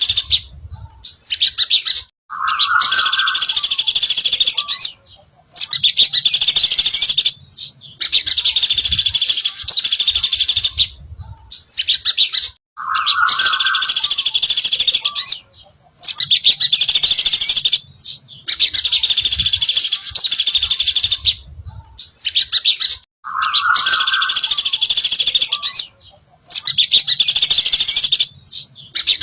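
A sogon dasi trotol songbird singing: loud, high, rapid trilling phrases a couple of seconds long, repeated with short pauses. Three phrases open with a brief lower note.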